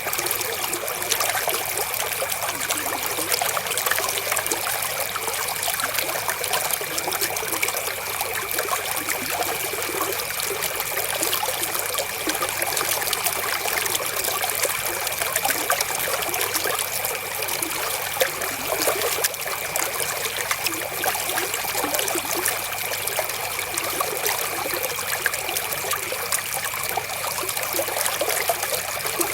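River water flowing steadily: a dense, even trickling and splashing that does not change.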